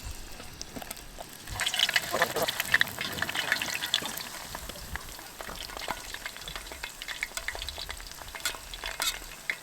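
Dumplings frying in hot oil: a dense sizzle and crackle starts about a second and a half in, is strongest for the next couple of seconds, then settles to a lighter, steady crackle.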